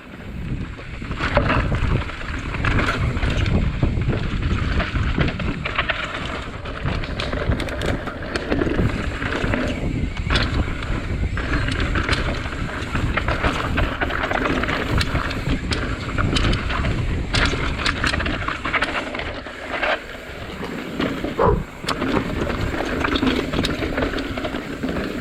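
Santa Cruz Tallboy mountain bike riding down a dirt trail: tyres rolling over ground, with the chain and frame rattling in short clicks over bumps. Wind buffets the microphone as a steady rumble.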